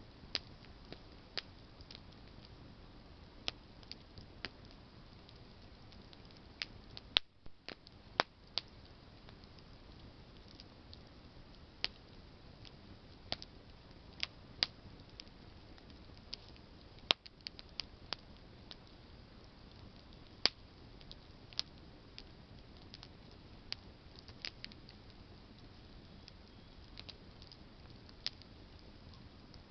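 Campfire of burning branches crackling: irregular sharp pops and snaps over a steady low hiss, a few pops much louder than the rest.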